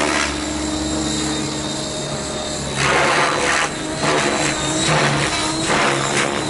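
T-Rex 700 radio-controlled helicopter in flight: a steady rotor and drivetrain drone with a thin high tone above it.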